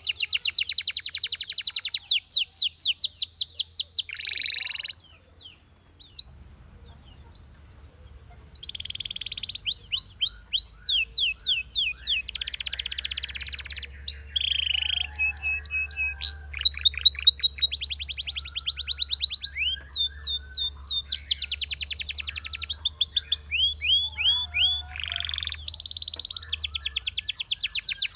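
Belgian canary singing a long song of fast trills, each a run of rapidly repeated notes, moving from one trill to the next. A brief lull comes about five seconds in before the song picks up again.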